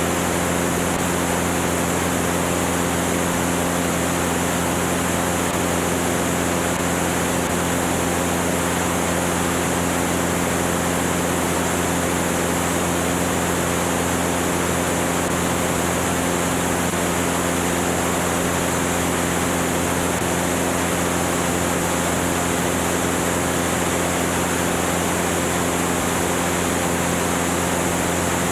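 Cessna 205's six-cylinder piston engine and propeller droning steadily, a constant low hum with an even hiss over it and no change in pitch or loudness.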